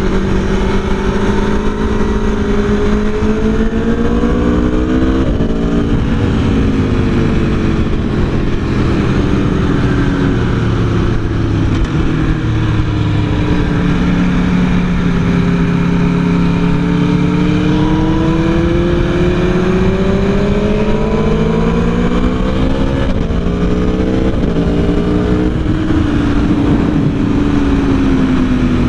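Aprilia Tuono V4 1100's V4 engine running hard on track, its pitch climbing as it accelerates and falling away as it slows, with a few quick drops in pitch, over a steady rushing noise.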